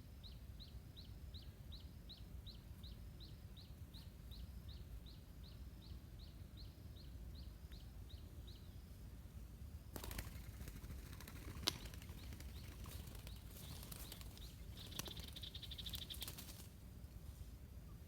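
Faint rapid high chirping, about three chirps a second, that stops about halfway through. Then come rustling and fluttering like a bird's wings flapping, with one sharp click.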